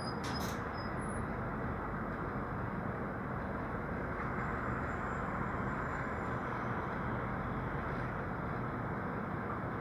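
Steady road-traffic noise: vehicles and tyres running on a road, an even rumble and hiss with no single event standing out, and two faint clicks at the very start.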